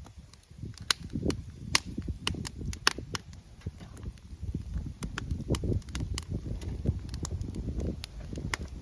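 Wood campfire crackling, with sharp, irregular pops and snaps over a low, uneven rumble.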